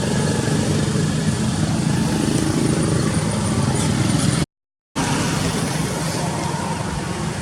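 Motor vehicle engine running steadily, with a rumble and road hiss. The sound cuts out completely for about half a second past the middle, then resumes unchanged.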